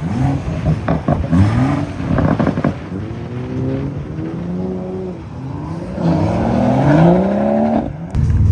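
Car engines revving and accelerating in a series of rising sweeps in pitch, with a few sharp cracks about a second in. The longest sweep climbs from about six seconds in and cuts off near the end.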